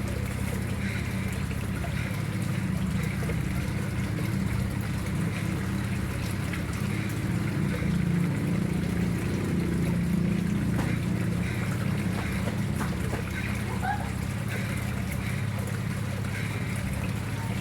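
Water trickling and flowing steadily into a koi pond, with a steady low rumble beneath it.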